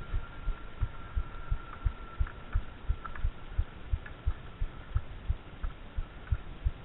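Dull low thumps in an even rhythm, about two and a half a second, with a faint steady high tone in the first half.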